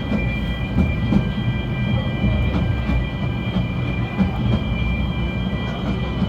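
Snowdon Mountain Railway rack-and-pinion train running steadily: a continuous low rumble with faint scattered clicks and a thin, steady high whine.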